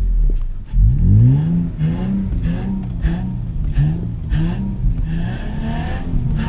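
Nissan Pathfinder's engine revving up and down again and again as the SUV bogs down in deep snow, with short bursts of hiss from the tyres spinning in the snow: the truck is getting stuck.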